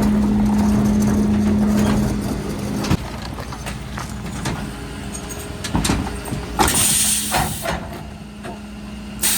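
Mercedes Econic refuse truck working: a loud steady hum from the engine and Faun Variopress compactor body cuts off with a click about three seconds in. The engine then carries on at a lower level with a few knocks, and two bursts of air hiss follow, one lasting about a second near the middle and another starting near the end.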